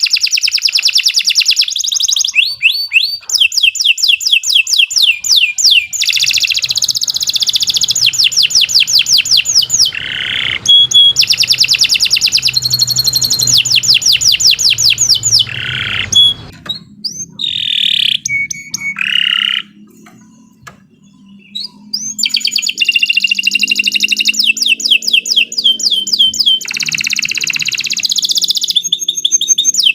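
Domestic canary singing its long song: loud, high trills of rapidly repeated notes, switching from one trill to another every second or two, with a pause of about two seconds roughly two-thirds of the way through.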